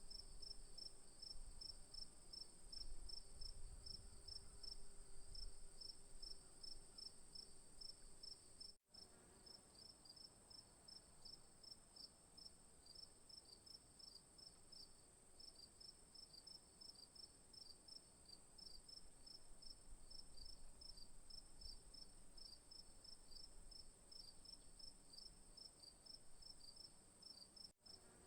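Faint insect chorus: a steady high-pitched drone with a quicker pulsed chirping beneath it, about four pulses a second. It breaks off for an instant twice, and a faint low rumble sits under it in the first few seconds.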